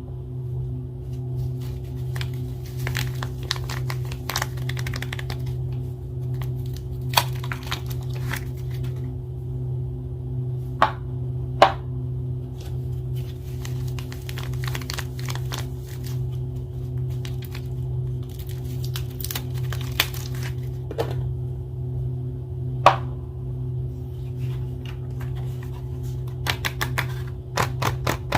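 Soap bar wrappers being handled and torn open: paper and plastic crinkling and tearing, with scattered sharp clicks and taps. A steady low drone runs underneath.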